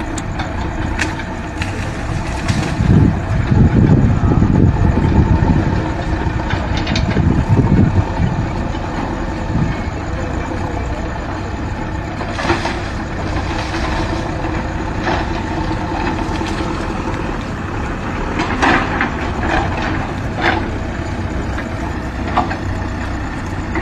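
Heavy machinery's diesel engine running steadily, with heavier rumbling surges a few seconds in and several sharp cracks later on.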